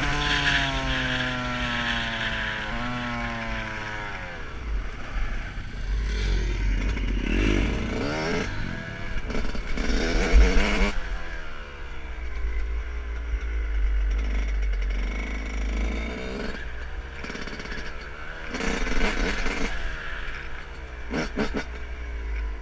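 Dirt bike engine running, its pitch falling steadily over the first four seconds, then revving up and down again and again under a heavy low rumble.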